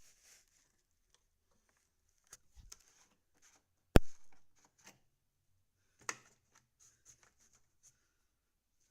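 A Craftsman lawnmower's recoil starter being pulled on a cold, very stiff engine: one loud sharp clack about four seconds in, with smaller clicks and rattles around it. The engine does not fire.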